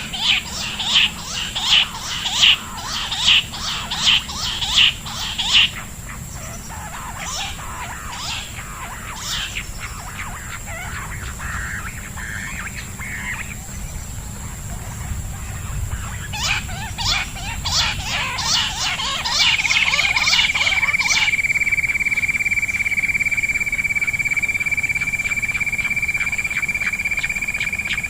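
Birds calling in quick runs of short, sharp calls, about two a second, in two bouts. A steady high whistling tone comes in about two-thirds of the way through and holds.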